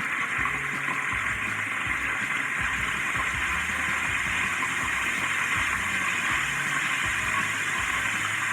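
Chicken schnitzel frying in hot oil, sizzling steadily.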